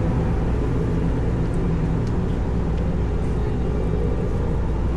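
Car ferry's engines running with a steady low drone under an even hiss, heard on the open back deck.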